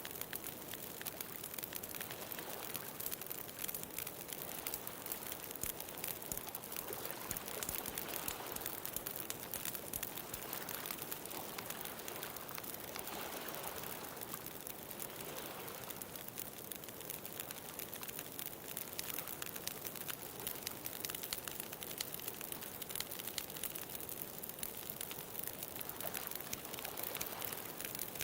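Wood bonfire crackling with many fine pops, over ocean waves that swell and wash in slowly, most strongly around the middle.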